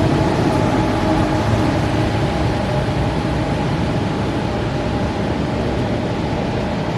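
High-speed train on the station track, a steady loud rumble and rush with a held whining tone, easing off slightly toward the end.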